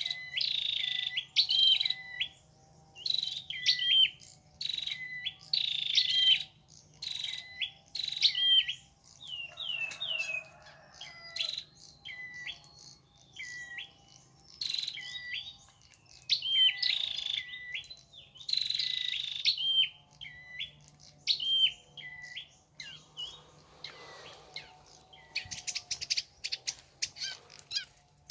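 Flowerpeckers calling: bursts of short, sharp, high chirps repeated several times a second, coming in runs with brief pauses between them.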